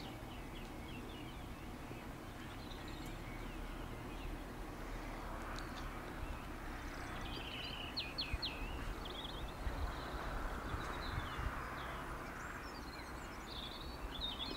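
Birds chirping in many short high notes, thickest in the middle and near the end, over a steady outdoor hiss and a low rumble that swells about two-thirds of the way through.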